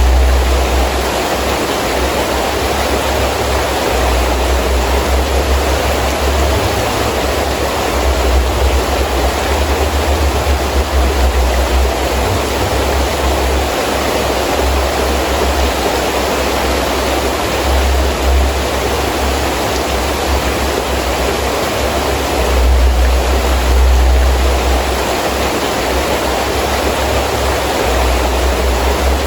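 Heavy rain falling steadily, with wind gusting as a low rumble that swells and drops every few seconds.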